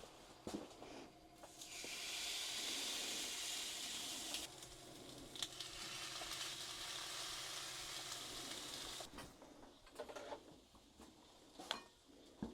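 Food frying in a hot pan: a loud sizzle starts suddenly about two seconds in and cuts off near nine seconds. A few clicks and knocks come before and after it.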